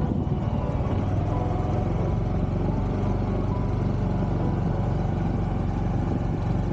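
Honda Hunter Cub (CT125) single-cylinder motorcycle engine idling steadily.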